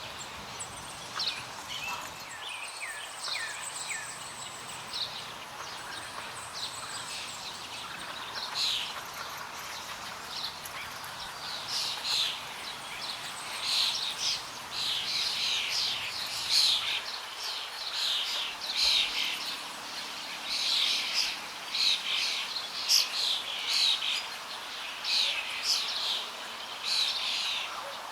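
Small birds chirping: many short, high calls, a few early ones falling in pitch, coming thicker and louder from about a third of the way in.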